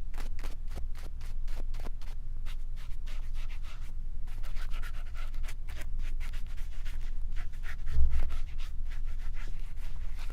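Brush bristles rubbing and scratching close against a microphone in a quick run of short strokes, over a steady low rumble, with a louder thump about eight seconds in.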